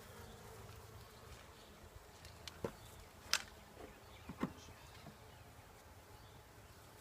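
Faint steady buzzing of honeybees at an open hive. A few short, light clicks fall in the middle, the sharpest about halfway through.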